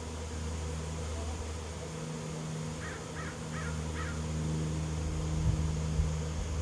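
Steady buzzing hum of a honey bee swarm moving into a swarm trap. About three seconds in, a bird calls four times in quick succession, about three calls a second.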